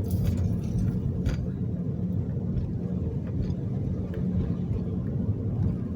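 Steady low road and engine rumble inside a moving car's cabin, with a few faint ticks about a second in.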